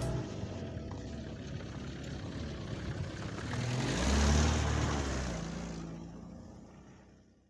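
A motor vehicle driving past: engine and road noise swell to a peak about four seconds in, then fade away to nothing.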